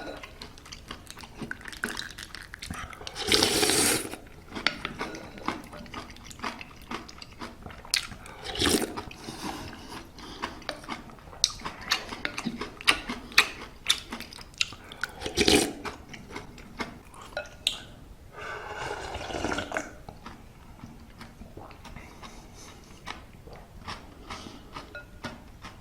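Crunchy granola being chewed close to the microphone: a run of small sharp crunches, with a few louder, longer crunching or scraping bursts.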